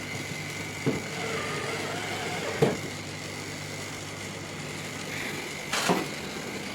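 A steady motor hum, with a few sharp knocks about one, two and a half and six seconds in.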